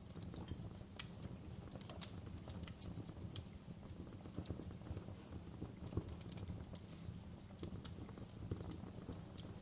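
Wood fire burning in a fireplace: irregular crackles and sharp pops over a low, steady rumble of flame, with a few louder pops.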